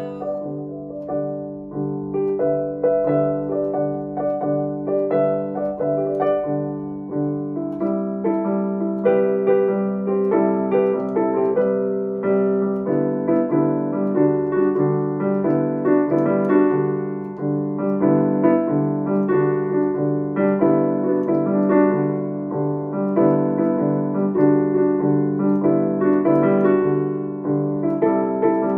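Piano playing an instrumental break of the song's two-chord progression, with no singing. The part grows fuller and busier about eight seconds in.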